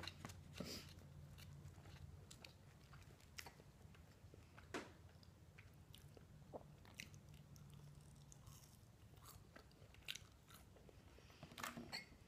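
Someone chewing crunchy battered onion rings, with scattered faint crunches and a few sharper bites, the loudest about five seconds in and near the end.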